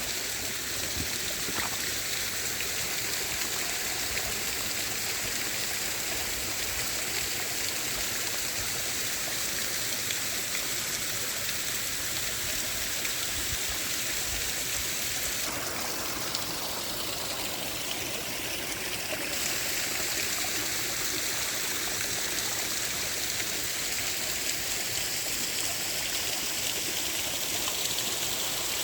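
Creek water cascading down a small waterfall: a steady rush of flowing and falling water, its tone shifting briefly about halfway through.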